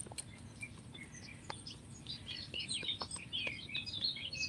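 Small birds chirping and twittering, sparse at first and busier from about halfway through, with a few faint clicks.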